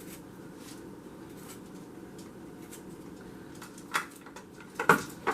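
Kitchen items being handled: a steady low hum with faint scattered ticks, then three sharp knocks or clinks of hard objects being set down or picked up near the end.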